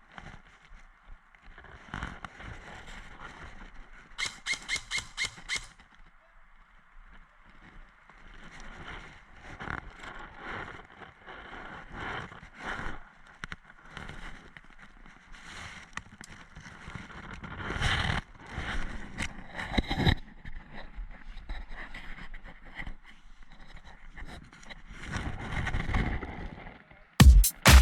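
Airsoft game field sounds: a quick string of about eight shots from an airsoft rifle about four seconds in, among scattered rustling, clicks and knocks of gear. Electronic dance music with a steady beat starts just before the end.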